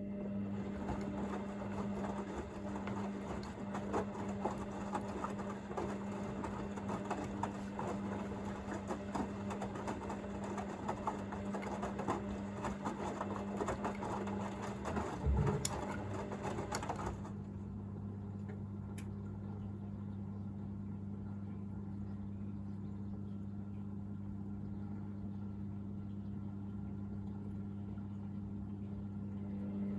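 Hoover VisionDynamic washing machine's drain pump switching on and pumping out rinse water: a steady hum with rushing water over it. About seventeen seconds in the rushing stops and the pump hums on alone, a lower hum now joining it, as the water runs out.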